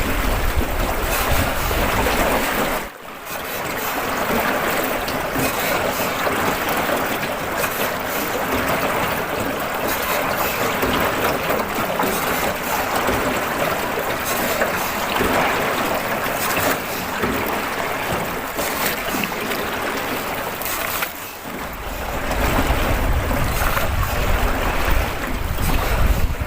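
Wind buffeting the microphone over a steady rushing hiss. The low rumble cuts out abruptly about three seconds in and returns about twenty-one seconds in.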